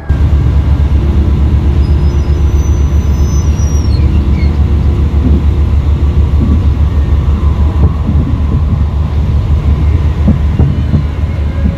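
Train in motion on the rails, a loud, steady low rumble, with a few faint high squeals or whistles in the first few seconds.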